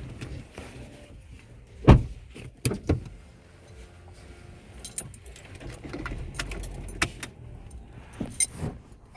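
Vehicle running with a low rumble, with a series of sharp clunks and rattles, the loudest about two seconds in.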